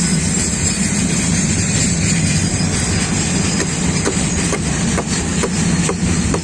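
Freight train of oil tank wagons running past with a steady loud rumble. From about halfway in, sharp clacks repeat roughly three times a second.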